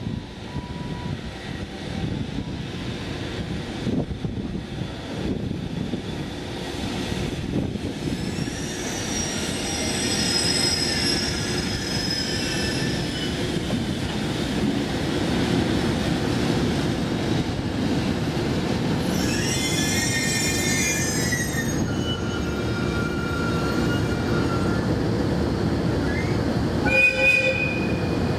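EH500 electric locomotive and its container freight train rolling slowly into a station and coming to a stop. A steady low rumble of wheels and motors runs under high-pitched wheel and brake squeals, about 8 and 20 seconds in. A short, loud squeal comes near the end as the train halts.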